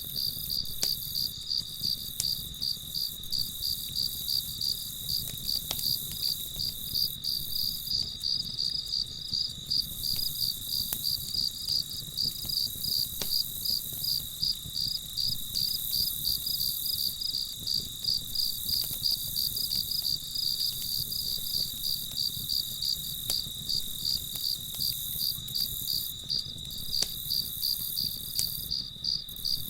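Crickets chirping in a steady, regular pulsing chorus, high-pitched and unbroken.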